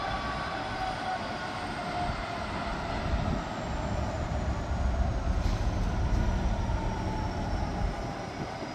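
A train slowing, its motors whining in several tones that fall slowly in pitch over a low rumble of wheels on rails, the rumble loudest in the middle.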